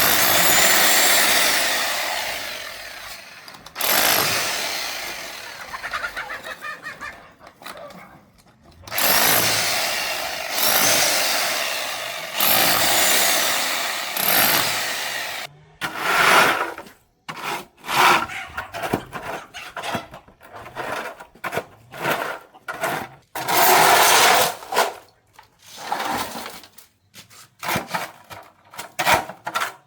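Scraping strokes of a hand tool on a hard surface: several long strokes lasting a few seconds each, then quick short strokes from about halfway through.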